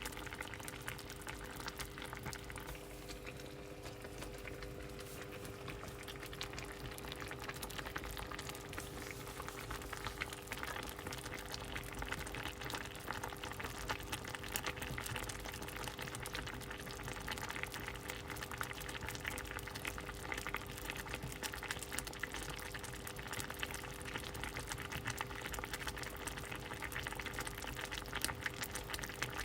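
Pot of soup boiling: continuous bubbling and popping, a little busier from about ten seconds in, over a steady low hum.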